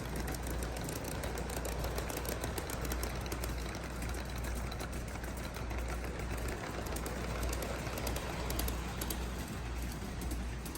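Aristocraft RS3 G scale model diesel locomotive pulling a train of freight cars along the track: a steady running hum from the motor and wheels, with light clicking throughout.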